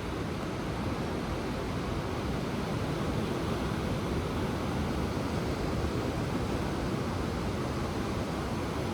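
Ocean surf making a steady, even wash, with no single wave breaking out above it.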